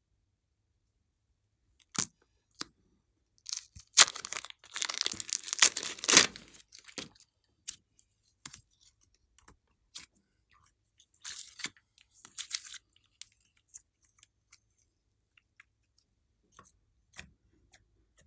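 Handling noises of slime-making materials: a few sharp clicks, then several seconds of dense crackling and crinkling, a shorter burst of it later, and scattered faint clicks.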